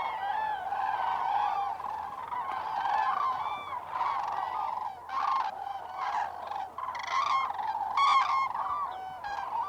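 A flock of common cranes calling, many loud trumpeting calls overlapping into a continuous chorus.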